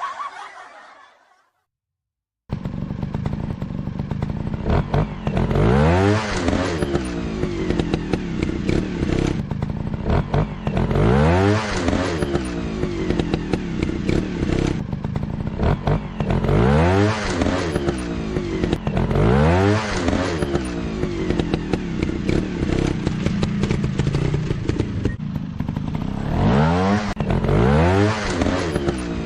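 Dirt-bike engine sound starting about two and a half seconds in after a short silence, then revving up and down over and over, a rising rev every two to three seconds.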